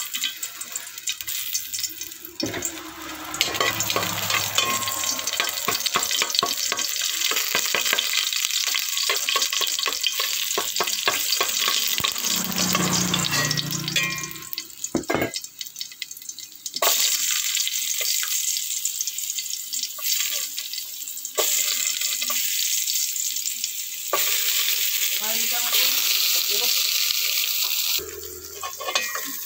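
Garlic, then ginger, shallots and green tomatoes sizzling as they fry in an aluminium pot, with a metal spoon stirring and clicking against the pot.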